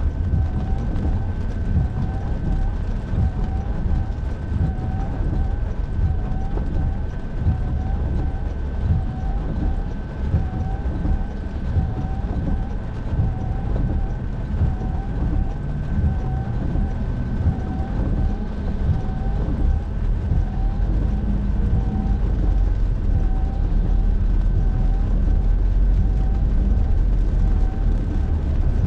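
Car driving on a wet road, heard from inside the cabin: a steady low rumble of road and engine noise. Through it run a thin steady whine and a soft chirp that repeats about once a second.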